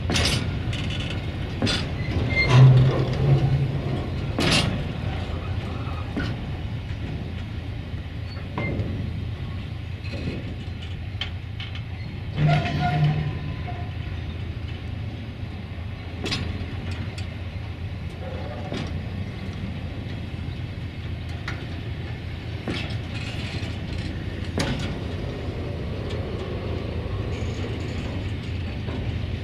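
Freight train of covered hopper wagons rolling past: a steady rumble of steel wheels on rail with scattered clicks and knocks. Louder clanks come about two to three seconds in and again around twelve seconds.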